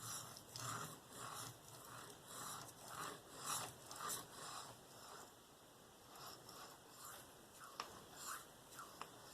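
Knife edge scraping across a fine Venev diamond sharpening stone in freehand strokes, about two a second, the blade steel being polished. The strokes go lighter in the second half, with a couple of small clicks near the end.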